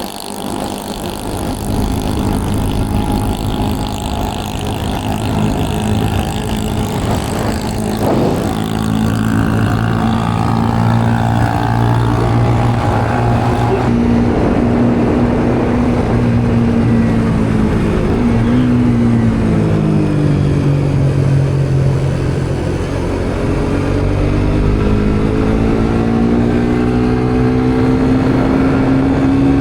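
Motorbike engine running under way, its pitch dropping and then climbing steadily with throttle and gear changes, over a steady rush of road and wind noise.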